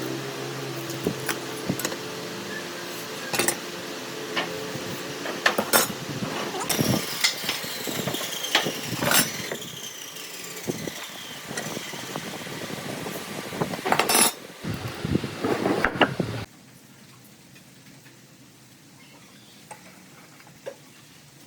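Workshop handwork: a string of sharp knocks and clinks of tools on wood and metal over a low hum. It cuts off suddenly about sixteen seconds in, leaving only a faint quiet background.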